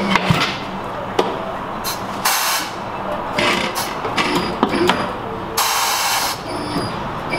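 Air tools at work in a tyre shop during a wheel change: several short bursts of hissing from a pneumatic tool, with a few sharp metallic clicks between them.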